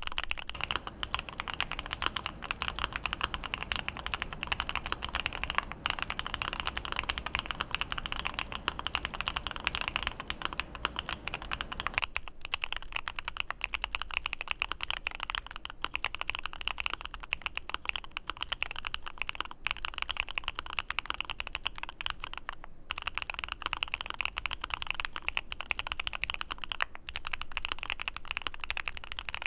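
Continuous fast typing on a Createkeebs Luminkey75, an aluminium gasket-mount mechanical keyboard: a dense run of key clacks. About twelve seconds in, the deep low end of the sound drops away and the clacks turn thinner.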